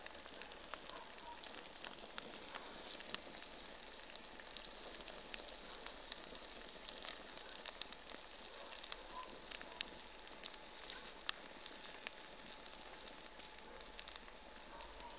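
Bonfire burning with a steady hiss and frequent sharp, irregular crackles and pops.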